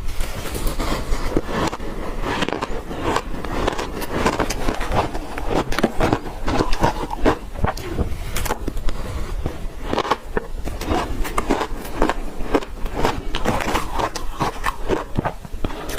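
Ice being chewed: a dense, continuous run of irregular crunches.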